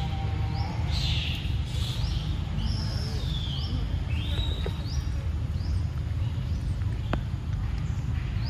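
Birds repeating a high chirping call about once a second, each note rising quickly and then held briefly, over a steady low rumble.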